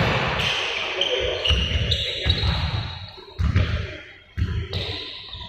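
Balls bouncing on a hard indoor court floor in an irregular run of deep thuds, with brief high squeaks like shoes on the floor.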